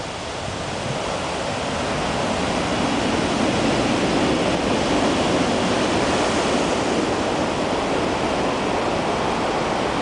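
Heavy typhoon surf breaking on the shore: a dense, continuous roar of waves that swells over the first few seconds and then holds steady, with some wind on the microphone.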